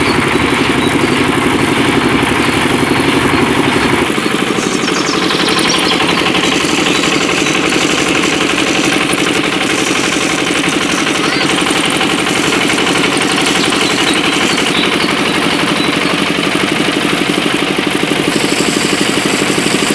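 Small engine of a DIY mini tractor running steadily with a fast, even beat, powering a homemade mini flour mill; its note changes about four seconds in.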